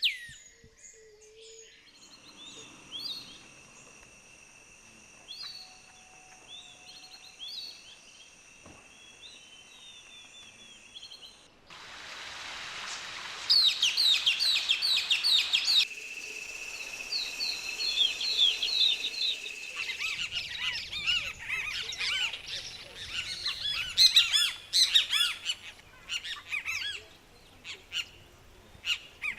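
Birds calling in a run of short, repeated chirping notes over a steady high buzz. The notes grow louder and denser about halfway through, and the sound changes abruptly several times.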